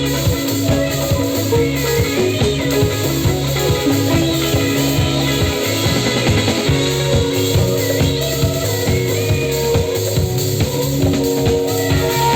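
Live band playing psychedelic trance music: a steady drum-kit beat and bass line under electric guitar and keyboards.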